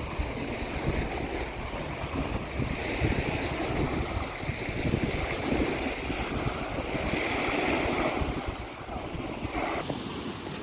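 Wind gusting on the microphone, a steady rushing noise with uneven low rumbling.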